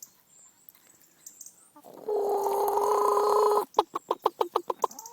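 A chicken calling: one long squawk held on a steady pitch for about a second and a half, then a quick run of about ten short clucks.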